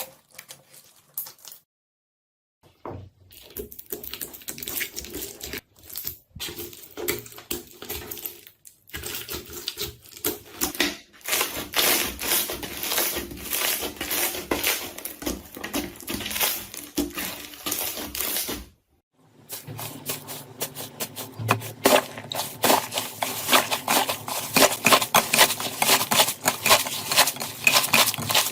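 Slime being squeezed and pressed by hand, a dense run of crackling, popping clicks. It stops for a moment about two-thirds of the way through and then starts again.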